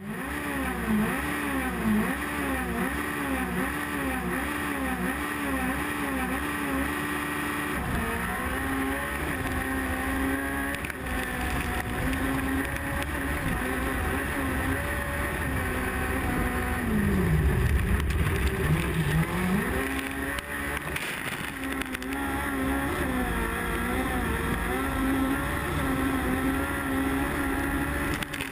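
VW Beetle race car's air-cooled flat-four engine, heard from inside the caged cabin. For the first several seconds the revs rise and fall about twice a second. The engine then runs at steadier, higher revs, and about two-thirds of the way through the pitch drops sharply and climbs back up.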